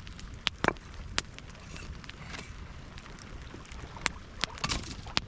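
Wood campfire crackling, with irregular sharp pops, a few louder ones about half a second, a second and four to five seconds in, over a low rumble of wind on the microphone.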